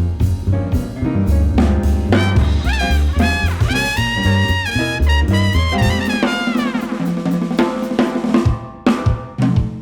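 Jazz band playing live: drum kit and bass under a sustained lead melody line that bends in pitch. About six seconds in the bass drops away, and near the end there is a brief break followed by drum hits.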